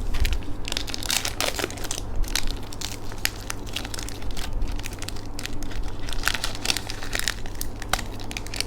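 White cream waffle snack being crushed and broken up by hand, with dense, irregular crinkling and crunching.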